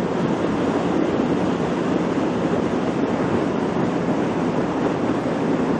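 Steady rush of wind on the microphone of a Kawasaki Ninja 650R being ridden at speed, with the bike's parallel-twin engine droning steadily underneath.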